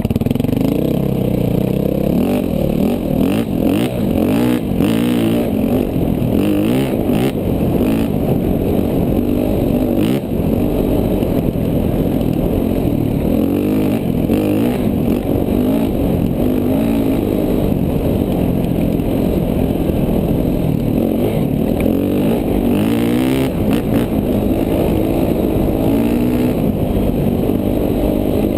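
KTM 450 dual-sport motorcycle's single-cylinder four-stroke engine running as the bike is ridden, its pitch rising and falling constantly with the throttle, with a few knocks along the way.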